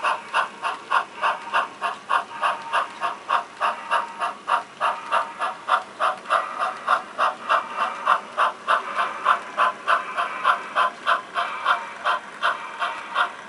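HO scale model steam locomotive's sound chuffing at a steady, even beat of about four chuffs a second as the engine moves slowly.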